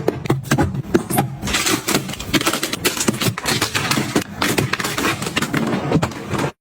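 Small objects being handled and set down: a dense run of clicks, knocks and rustles that cuts off suddenly near the end.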